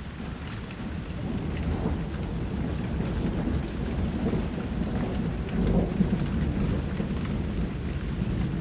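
Steady rain falling, with a low rumble of thunder that builds from about a second in and is loudest around six seconds in.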